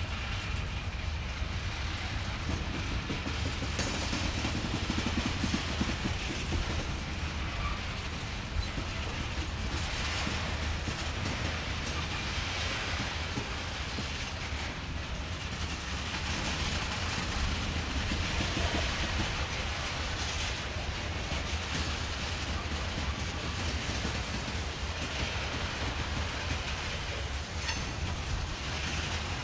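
Covered hopper cars of a slow-moving freight train rolling past: a steady low rumble of wheels on rail with a sharp click now and then.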